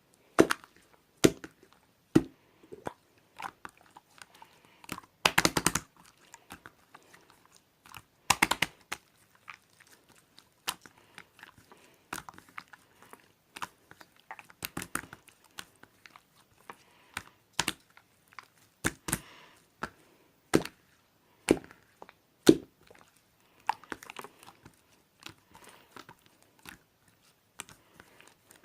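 Two-layer slime with a bubble-filled top layer being pressed and poked by hand: irregular sharp wet pops and crackles as the trapped air bubbles burst, with two longer crackling stretches about five and eight seconds in.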